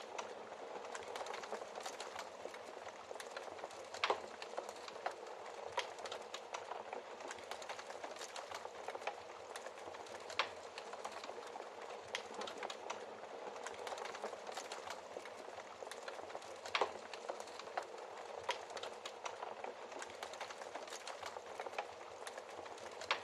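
Wood fire crackling in a fireplace: a steady soft hiss dotted with irregular small snaps, with a few sharper pops standing out, about four, ten and seventeen seconds in.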